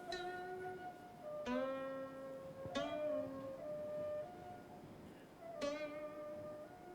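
Slow, sparse music on a plucked string instrument. Single notes are plucked a second or more apart, each rings on, and some slide to a new pitch while still sounding.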